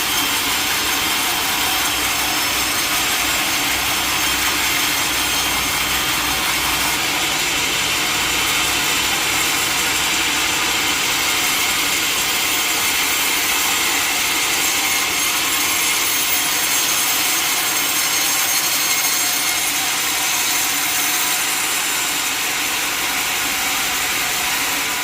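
Sawmill saw cutting steadily through a large mahogany log, a continuous even sawing noise without pauses.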